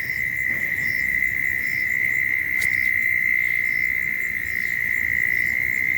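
Night chorus of crickets: an unbroken, steady high-pitched trill, with a fainter, higher call repeating a little faster than once a second.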